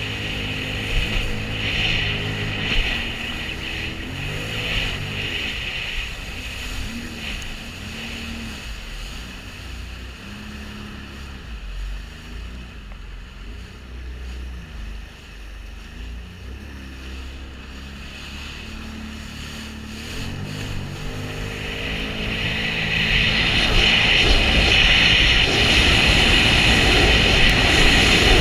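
Sea-Doo jet ski engine running, its pitch rising and falling with the throttle. It eases off through the middle, then opens up about three-quarters of the way in, growing louder with a steady rushing noise.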